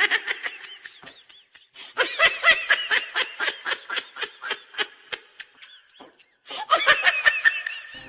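High-pitched laughter in three long fits of quick, rapid giggles, with short pauses between them.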